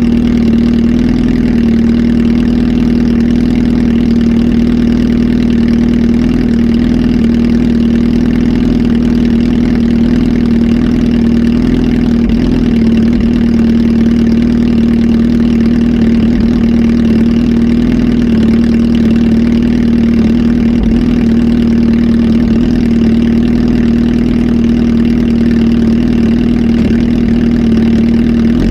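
Kawasaki Z H2 SE's supercharged inline-four engine, flash-tuned and breathing through a full aftermarket exhaust system, idling steadily at an unchanging pitch.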